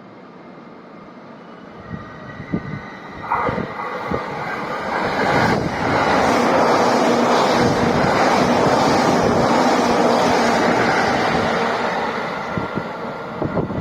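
Electric train passing close by on the line. Its running noise builds over a few seconds, stays loud for about six seconds, then begins to fade near the end, with sharp clicks of wheels over rail joints.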